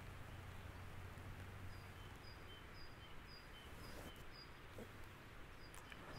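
Faint outdoor ambience with a small bird calling: short high chirps alternating with slightly lower ones, about twice a second, starting a little under two seconds in.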